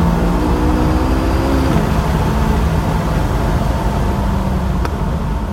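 McLaren 570S twin-turbo V8 at full throttle near 7,700 rpm in third gear, its pitch climbing until a quick upshift to fourth about 1.7 seconds in drops it, then pulling steadily in fourth. Heard from inside the cabin over road and wind noise, with a short click near the end.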